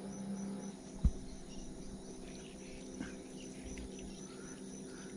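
Jungle insects chirping in a steady pulse, about four times a second, over a low steady hum, with a single sharp thump about a second in.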